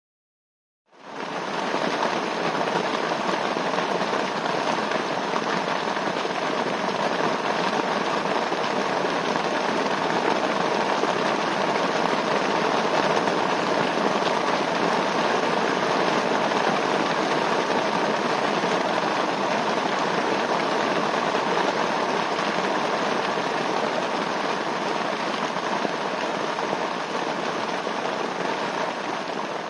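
A steady, even hiss like rain or fat sizzling in a pan, fading in about a second in.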